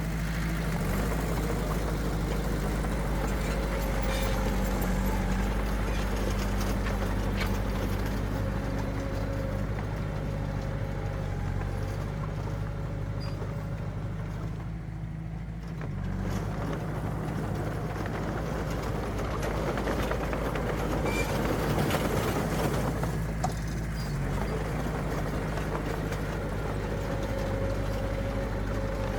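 Diesel engine of heavy earthmoving machinery running steadily under load, easing off briefly about halfway through.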